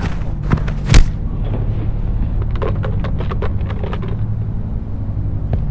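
Fight impacts over a steady low rumble: one hard, sharp hit about a second in, the loudest sound, and a quick run of smaller hits and scuffs around the middle.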